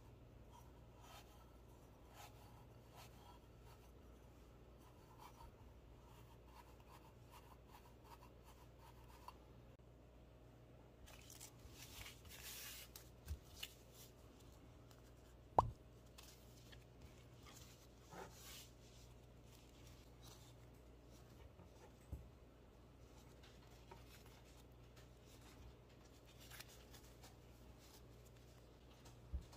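Quiet hand-handling sounds of a brass spirit burner and its mod materials: light ticks as steel wool is pressed into the burner, then a rustle of a foil-faced sheet. There are a few soft knocks and one sharp tap about halfway through.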